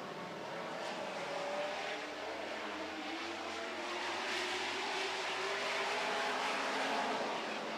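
A pack of Super Truck racing trucks running at speed around a dirt oval, several engines rising and falling in pitch as they accelerate and lift. The engine noise grows louder toward the end as the trucks come closer.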